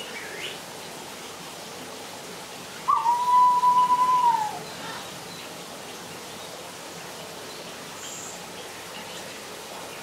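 A bird gives one loud, long whistle held at a single pitch, with a quick flick up at the start and a short drop at the end.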